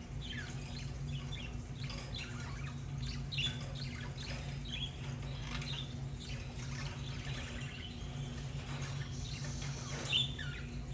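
Budgerigars chirping and chattering in a stream of short warbling calls, over a steady low hum.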